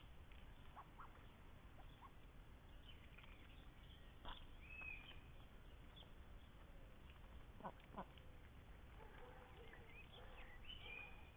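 Faint quacking of Indian runner ducks, mostly in the last few seconds, with small birds chirping now and then and a couple of soft clicks about eight seconds in.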